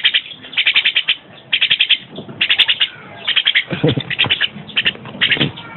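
A tame pet bird making repeated short bursts of rapid rattling, roughly two bursts a second.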